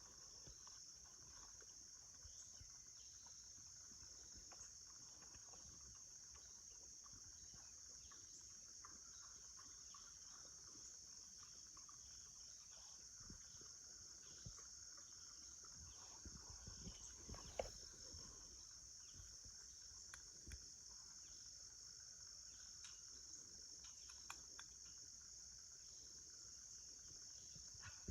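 Faint, steady chorus of insects, an even high-pitched drone that does not change. Scattered light ticks and taps sound over it, the sharpest a little past the middle.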